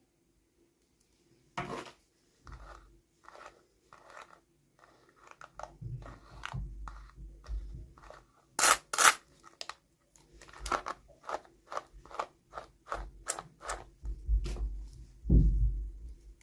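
Hands unboxing small toys: a run of short clicks, crinkles and scrapes from handling the packaging. Two sharp snaps come about halfway through, and a duller knock comes near the end.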